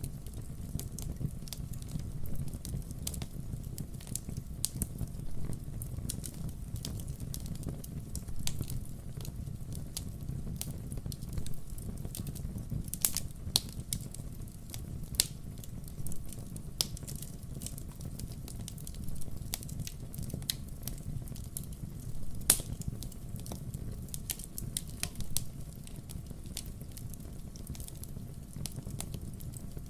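Wood fire crackling: irregular sharp pops and snaps of burning firewood over a steady low rumble, with a few louder pops about halfway through and again later.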